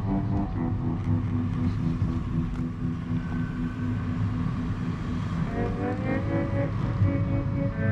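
A steady low rumble of a car driving, under background music whose long held chords change about five and a half seconds in.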